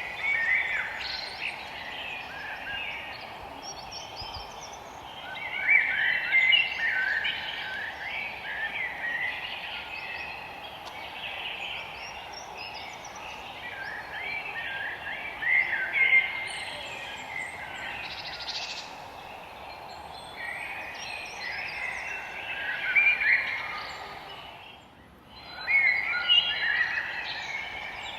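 Songbirds singing, with quick chirpy phrases coming in bursts every few seconds over a steady low hiss. Everything dips briefly near the end.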